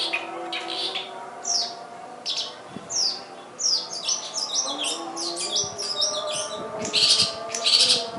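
Long-tailed shrike (cendet) singing a varied, mimicking song: a run of sharp chirps and down-slurred whistles, a quick chattering series about halfway through, then louder harsh, buzzy calls near the end.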